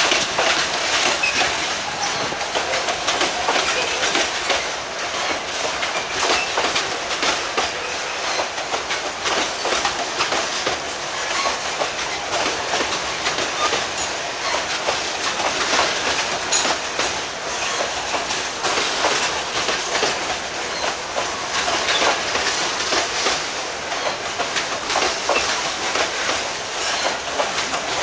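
Loaded freight wagons rolling past, their steel wheels clattering steadily over the rail joints.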